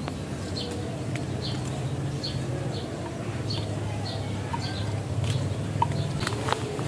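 A bird repeating a short, high chirp about once a second over a low steady hum, with a few light clicks near the end.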